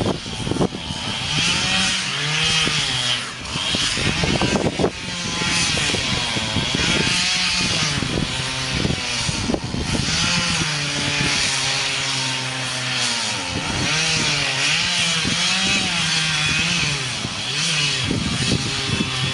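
Chainsaw running and cutting wood, its engine speed rising and falling repeatedly under load.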